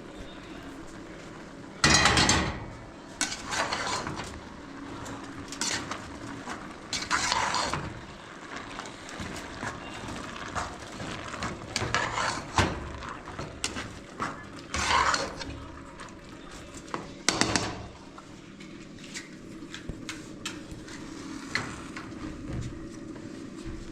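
Irregular clattering and scraping of hard objects, with several louder bursts scattered among light knocks.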